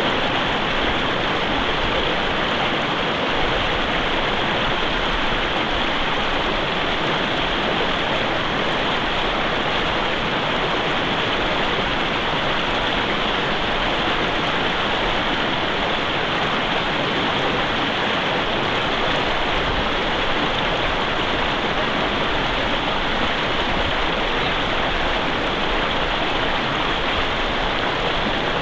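Mountain river flowing over rocks: a steady, even rush of running water.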